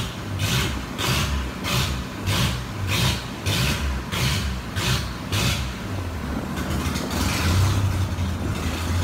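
Dodge 2.2-litre four-cylinder running naturally aspirated on an engine dyno, with a regular pulsing about two to three times a second that evens out into steadier running for the last few seconds.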